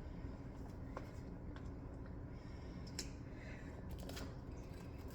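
Faint handling noise from working on gingerbread house pieces: a few scattered light clicks and rustles over a low steady room hum.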